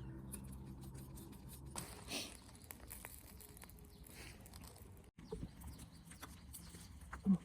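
Quiet handling sounds: a low steady hum that stops about two seconds in, a brief rustle, scattered small clicks, and one short knock near the end.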